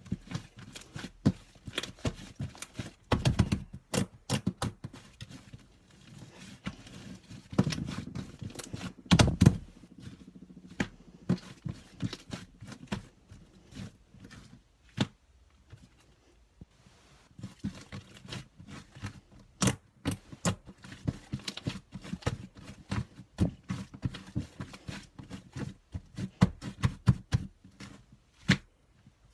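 Sticky slime being pressed and poked by hand, giving an irregular run of small clicks and pops with a few heavier squishes.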